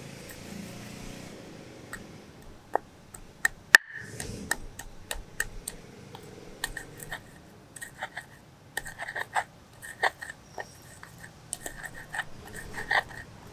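Kitchen preparation sounds: irregular sharp clicks, knocks and light clinks of utensils and containers being handled, some with a short ring.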